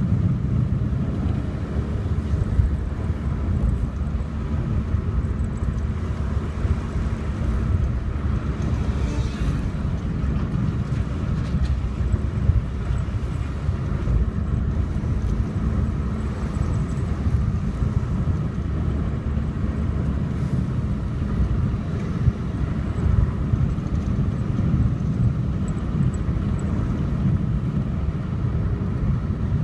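Steady engine and road rumble of a vehicle driving along a mountain road, heavy in the low end and unbroken throughout.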